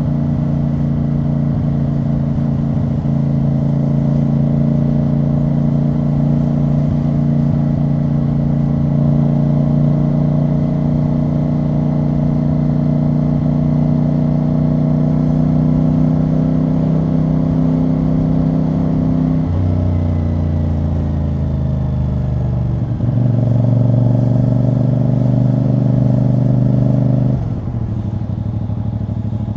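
CFMoto CL-C 450 parallel-twin engine and exhaust at steady cruising throttle. The note holds and creeps slightly higher for about twenty seconds, then drops as the revs fall. It picks up again for a few seconds, then the revs drop once more near the end.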